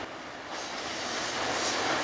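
JR EF65 electric locomotive and its train climbing a steep grade out of a tunnel: the running noise of the approaching train, growing louder from about half a second in.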